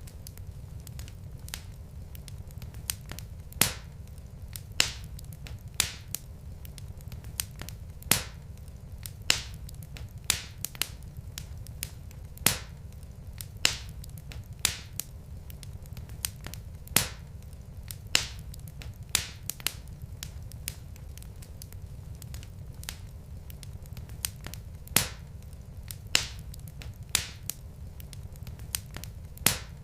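Wood fire in a fireplace crackling: sharp pops and snaps of burning logs, a loud one every second or so with lighter ticks between, over a low steady rumble of the flames.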